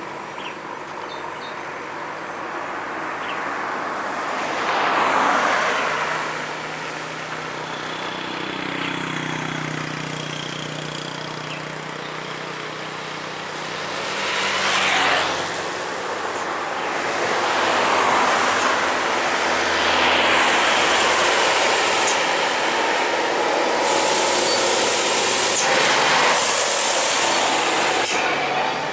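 Heavy diesel trucks passing one after another: engine drone and tyre noise swell and fade with each one, the loudest passes about five and fifteen seconds in and through the last third.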